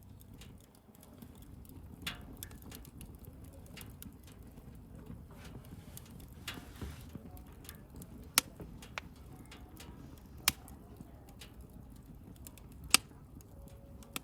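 Wood bonfire burning: a low steady rumble of flame with scattered small crackles, a brief hiss about halfway, and three sharp pops in the second half.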